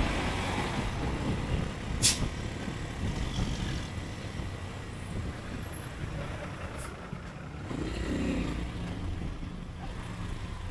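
Low steady rumble of a motorcycle ride through city traffic, with a brief sharp hiss about two seconds in and a fainter one near seven seconds.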